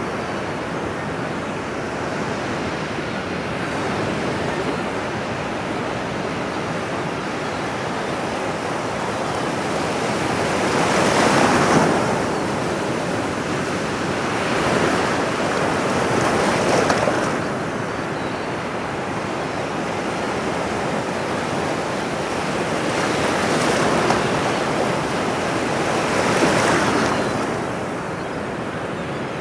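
Ocean surf: a steady wash of waves on a shore that swells louder about four times as larger waves break.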